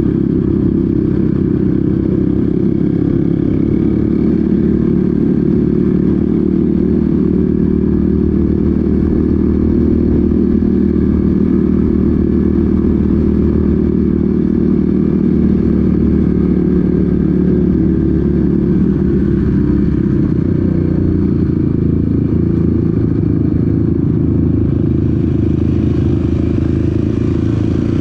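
Off-road vehicle engine running steadily while under way on a trail, its level holding even throughout.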